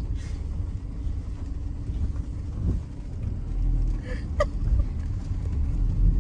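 Car driving slowly on a rough road, a steady low rumble of engine and tyres heard from inside the cabin.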